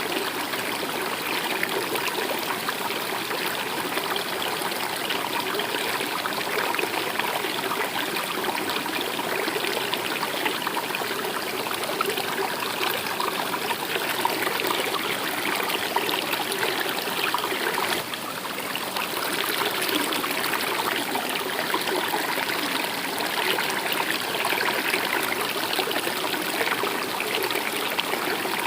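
A stream of running water babbling and trickling steadily.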